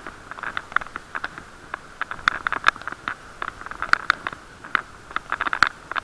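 Bicycle ride heard through an action camera's waterproof case: irregular clicks and rattles over a steady muffled hiss.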